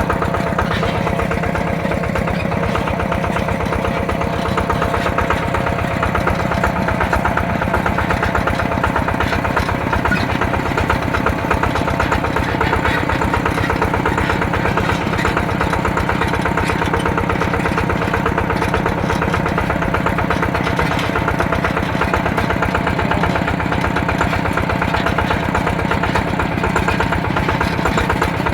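Single-cylinder Yanmar TF120 DI diesel engine of a mini tractor running steadily, with its firing pulses coming evenly and the pace unchanged throughout.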